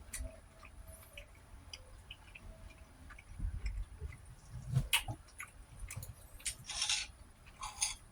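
A person chewing food close to the microphone, with small wet mouth clicks and a few soft thumps, and a short breathy hiss near the end.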